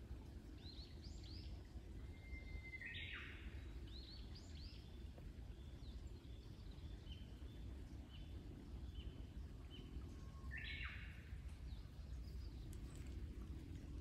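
Wild songbirds calling: series of short high chirps, with two louder calls, about 3 s and about 10.5 s in, each sweeping down in pitch. A steady low rumble of outdoor background noise runs beneath.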